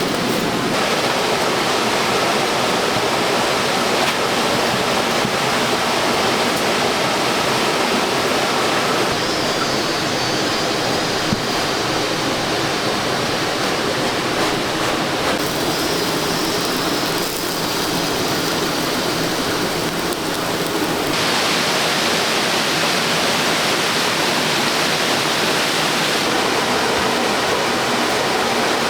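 Steady rushing sound of water, rain or running water, that changes in tone abruptly a few times.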